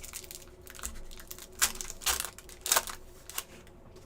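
Trading cards being handled and flicked through by hand: a run of light clicks and rustles with a few sharper snaps in the middle, easing off near the end.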